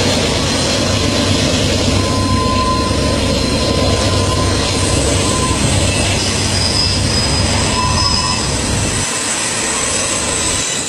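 Container freight train rolling by, a steady rumble of wheels on rail with faint high-pitched wheel squeal; the deep rumble falls away near the end.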